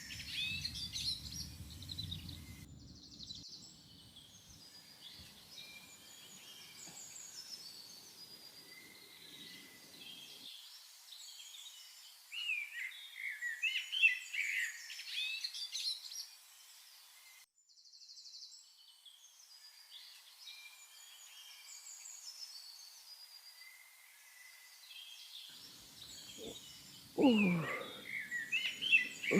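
Birds chirping and calling repeatedly, with one loud long cry that slides steeply downward in pitch near the end.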